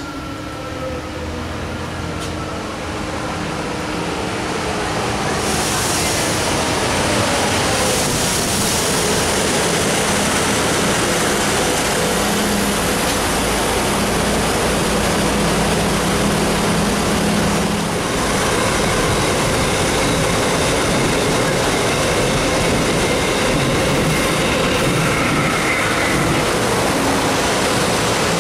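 Electric train passing on the line. The rail and wheel noise swells over the first few seconds, then stays loud and steady, with a few falling whining tones early on and a low hum that drops away about two-thirds of the way through.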